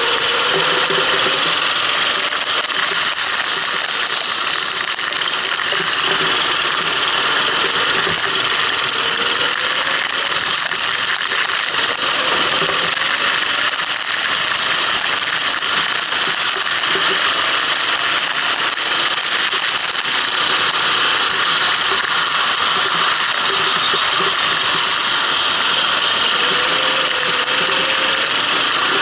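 Go-kart engine running continuously as the kart laps a wet track, heard onboard with a dense, steady noise, its pitch rising and falling a little with speed.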